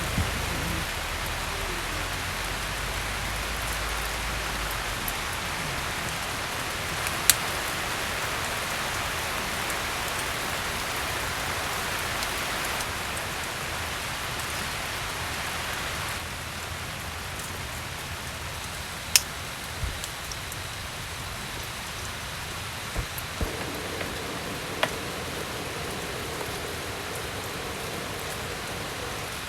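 Steady rain falling, with a few sharp knocks and clicks scattered through it.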